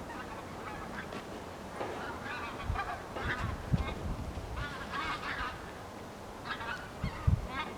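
Birds giving repeated short honking calls, with a few dull knocks underneath.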